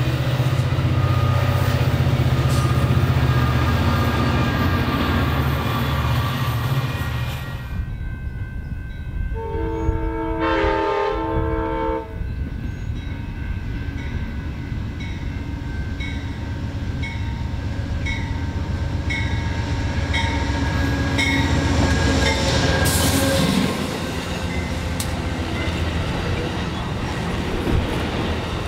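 Diesel train: a heavy engine drone, then a locomotive horn sounding a chord of several notes for about two and a half seconds. The train's wheels then click over rail joints about once a second as it rolls past.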